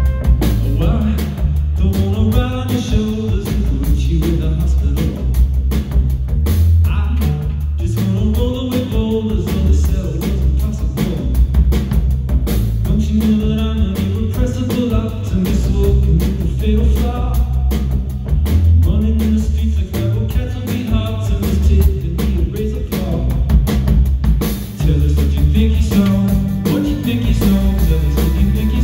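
Live band music with a sung melody over a drum kit, bass and guitar.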